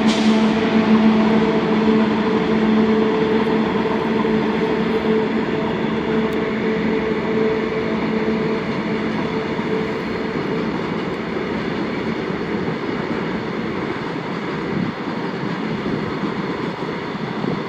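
Steady whine of twin WAG 5A electric locomotives fading away over about ten seconds, over the continuous rolling noise of loaded BCNA freight wagons running past on the rails.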